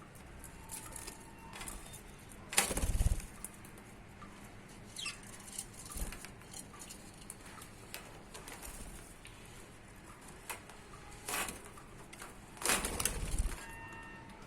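Budgies fluttering their wings in two short flurries, one about three seconds in and one near the end, with small clicks and faint chirps between.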